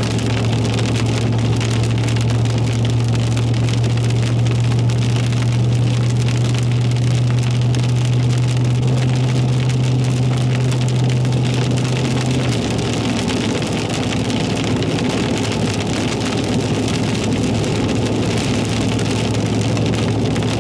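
Rain falling on a car, over the steady low hum of the vehicle. The hum drops in level about twelve seconds in.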